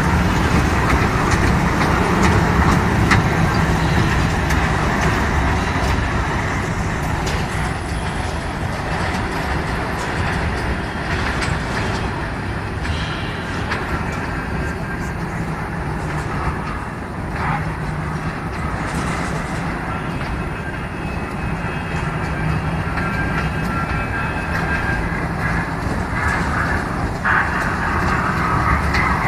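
Amusement-park elephant train ride running: a steady mechanical rumble with a low hum and a few scattered clicks.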